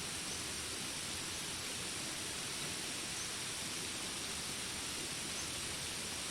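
Steady, even rain falling, an unbroken hiss.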